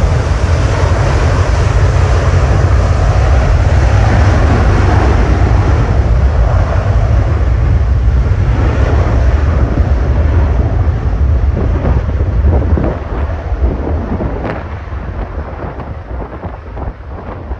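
Lockheed Martin F-35A's Pratt & Whitney F135 jet engine in afterburner: loud, deep jet noise that holds steady for about twelve seconds, then fades as the jet moves away, with sharp crackles coming through as it trails off.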